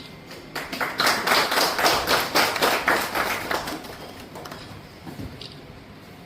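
Audience applauding, starting about half a second in and dying away after about four seconds.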